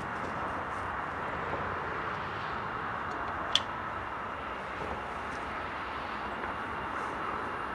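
Steady distant vehicle noise, with a single sharp click about three and a half seconds in.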